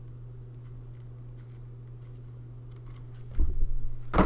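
Steady low hum with faint ticks, then about three seconds in a short burst of knocks and clicks as game cards and their packaging are handled close to the microphone.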